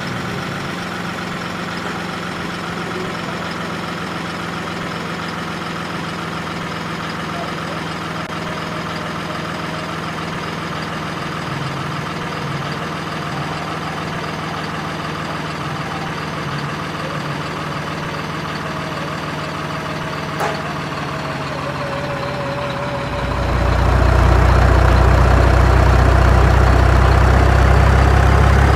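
Heavy diesel engine of earthmoving machinery running steadily. About three-quarters of the way through it gets much louder and deeper and stays there, as the machine comes under load or is revved up. A single short click comes just before the rise.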